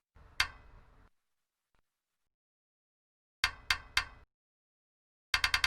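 Short, sharp knocks, each ringing briefly. One comes about half a second in, three follow in quick succession a few seconds later, and a fast string of several comes near the end. Between them there is dead silence.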